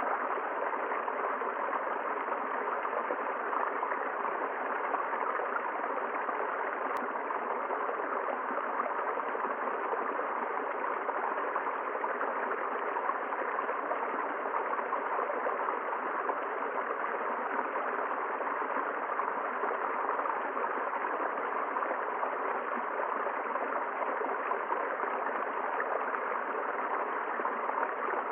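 A river flowing steadily: a constant, even sound of running water.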